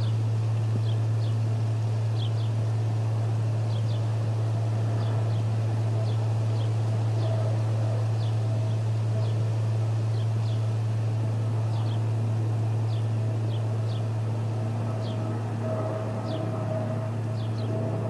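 Short, high, down-slurred bird chirps, often in pairs, repeating roughly once a second over a loud, steady low hum.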